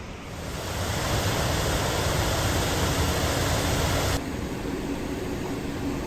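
Loud steady rushing noise with a deep rumble underneath, swelling in over the first second and cutting off abruptly about four seconds in, leaving a quieter hiss.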